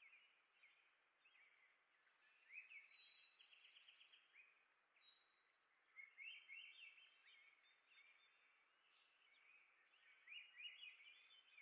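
Songbirds singing, faint: a few bursts of quick, high chirps and trills, with short pauses between, over a steady outdoor hiss.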